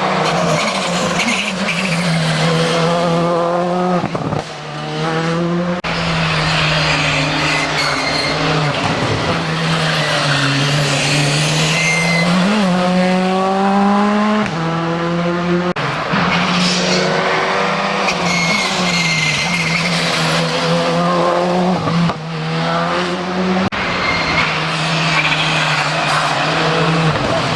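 Rally car engines accelerating hard through the gears, the pitch climbing again and again with short drops at the shifts. Tyres squeal along with them.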